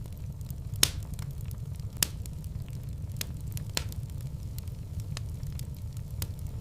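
Wood fire burning in a fireplace: a steady low rumble with irregular crackles and pops, the sharpest about a second in and two seconds in.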